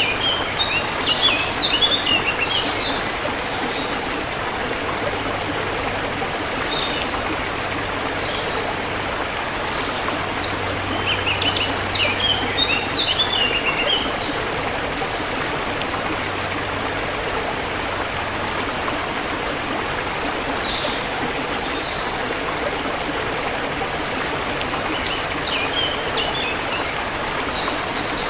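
Steady rushing of a forest stream, with songbirds chirping in short bursts over it: near the start, in the middle, and again near the end.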